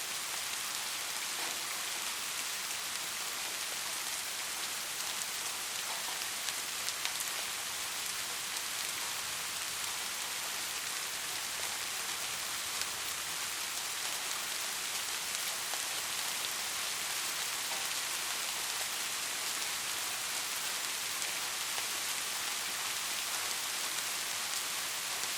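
Steady rain falling on a surface, an even hiss of many drops with a few individual drop ticks standing out.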